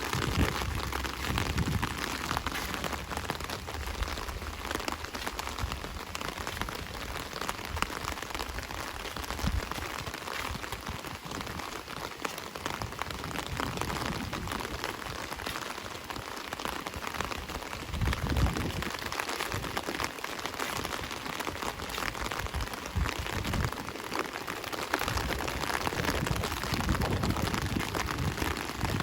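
Steady rain falling, a continuous wash of many small drop impacts, with a few brief low swells in the middle.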